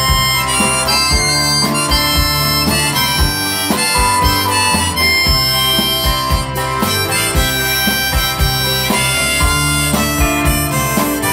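Instrumental break of a folk song: a harmonica plays the melody over band backing with a steady beat.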